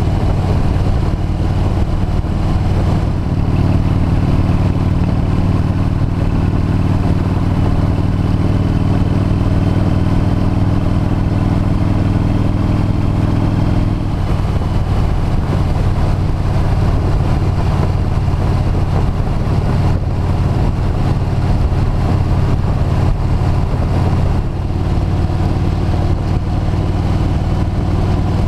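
Motorcycle engine running steadily on the road, with wind rush. The engine note grows stronger a few seconds in and eases off suddenly about halfway through.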